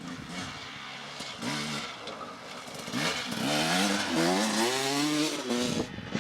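Dirt bike engine revving up and down as it is ridden, its pitch rising and falling with the throttle, getting louder from about halfway through.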